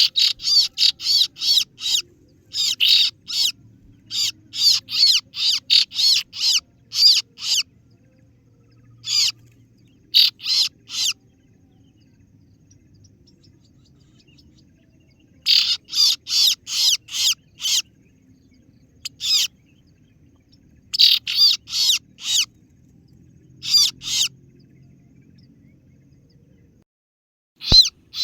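Kaso-kaso bird (singo barong) calling: runs of sharp, high "ciet ciet" chirps, about three or four a second, in bursts of a few seconds with pauses between and one long pause in the middle. It is a recorded lure call, played to draw in a rival bird.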